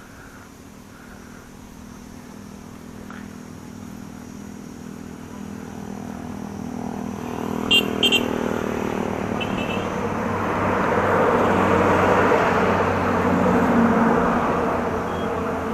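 A motor vehicle's engine approaching and growing steadily louder, passing closest near the end. A horn gives two short toots about eight seconds in.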